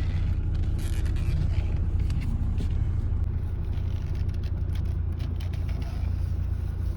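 Steady low rumble of a Toyota Innova Crysta on the move, engine and road noise heard from inside the cabin.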